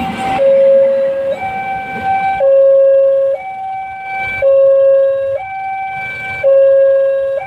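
Railway level-crossing warning alarm sounding a steady two-tone hi-lo pattern, a lower and a higher tone each held about a second, the lower one louder. The rumble of the passing train fades out in the first half second.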